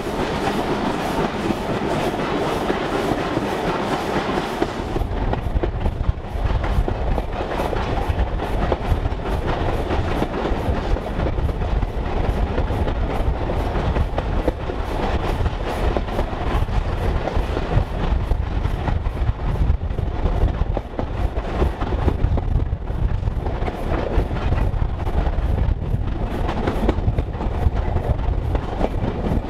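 Heritage steam railway train running along the line: a steady rumble with wheels clacking over the rail joints. About five seconds in, the high hiss fades and the low rumble grows stronger.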